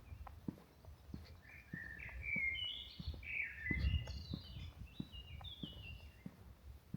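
A songbird sings a run of clear whistled notes, stepping up and down in pitch, for about five seconds. Footsteps tap underneath about twice a second.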